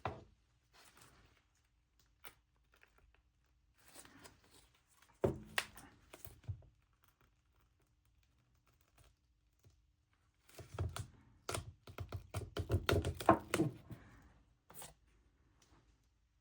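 Tablet parts and small tools being handled on a workbench: scattered clicks and knocks, a thud about five seconds in, and a quick run of clicks and rattles from about eleven to fourteen seconds in.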